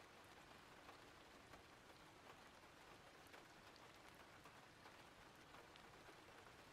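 Faint, steady rain ambience: an even hiss of rainfall with scattered soft drop ticks.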